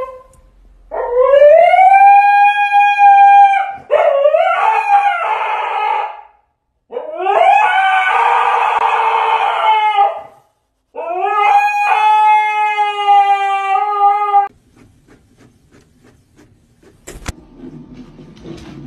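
Siberian husky howling: four long howls, each rising at the start and then held. A few light knocks follow near the end.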